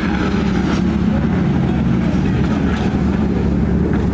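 A loud car engine and exhaust running at a steady, fairly even pitch.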